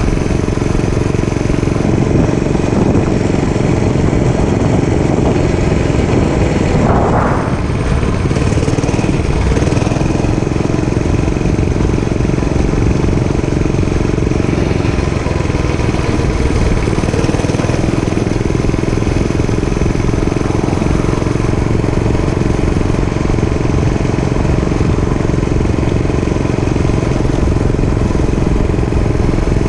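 Dirt bike engine running steadily under way, with a brief rise in revs about seven seconds in, over low wind rumble.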